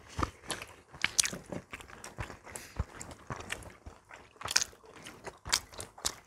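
People chewing and crunching food at the table, with scattered sharp clicks of chopsticks against bowls and dishes.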